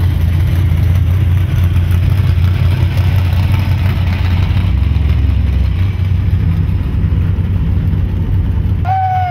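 Low, steady engine and exhaust rumble of cruising cars, heard from inside an older car's cabin with the window open. Just before the end the rumble cuts off abruptly and a pitched tone slides down.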